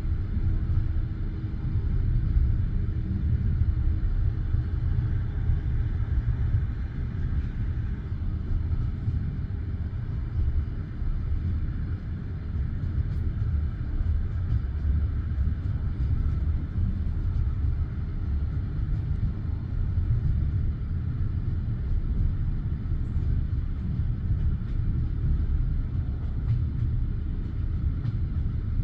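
Passenger railway car running along the line: a steady low rumble of the wheels and running gear on the track.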